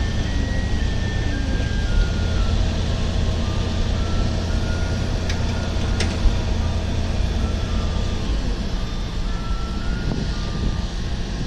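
Steady low rumble of a car running, with a thin melody of held high notes over it; the rumble eases about eight seconds in.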